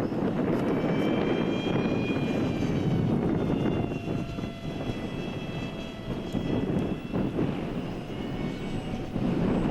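Small electric RC park jet's motor and propeller running in flight, a high whine that shifts slightly in pitch and dips in loudness midway. Wind buffets the microphone throughout.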